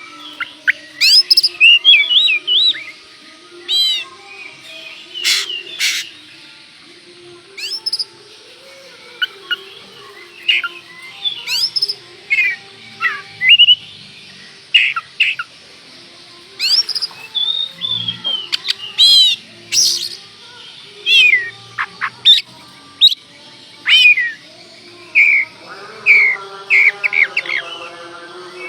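Oriental magpie-robin singing energetically: a loud, varied run of clear whistles, rising and falling sweeps and quick chirps with short gaps between phrases. Near the end a steady pitched drone with overtones joins under the song.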